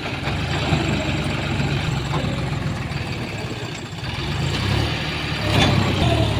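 Tractor diesel engine running steadily at low revs, easing off slightly partway through and then picking up again.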